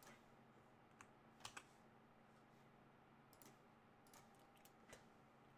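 Faint, scattered computer keyboard keystrokes: a handful of separate clicks with pauses between them, over near silence.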